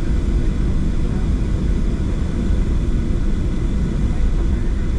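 Steady low rumble of a Boeing 737-700's engines and airframe heard inside the passenger cabin, with a faint high whine over it.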